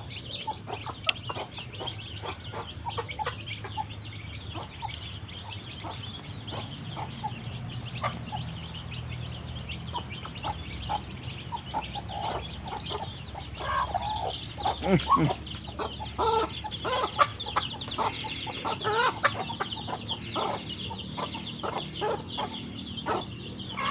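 A flock of free-range village chickens clucking while being fed, the calls louder and busier in the second half.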